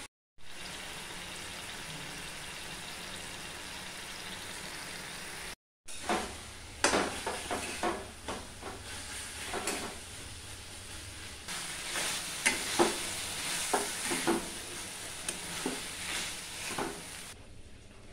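Moong dal sizzling in a steel kadai over a gas flame. From about six seconds in, a spatula stirs it, scraping and knocking against the pan many times over the steady sizzle.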